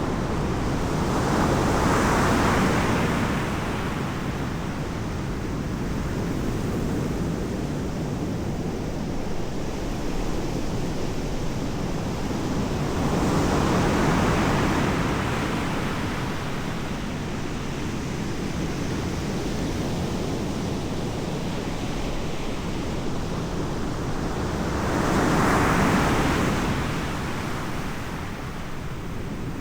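Ocean surf: three waves break and wash in, about twelve seconds apart, over a steady rush of sea and wind on the microphone.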